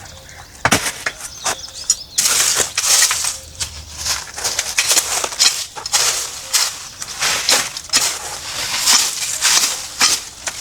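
Irregular rustling and crunching, with many short crackles, louder and denser from about two seconds in, like dry material being handled or crushed.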